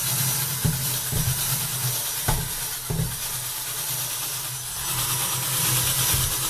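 Cordless drill spinning a nylon brush pressed hard against the inside of a microwave: a steady motor hum under a broad scrubbing hiss, with a few short knocks in the first three seconds.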